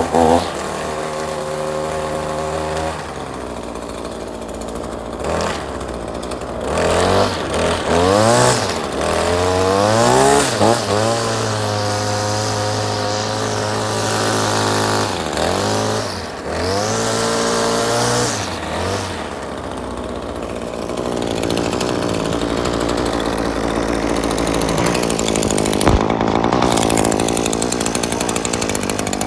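Small two-stroke engine running, idling then revved up and down several times before settling into a steady run.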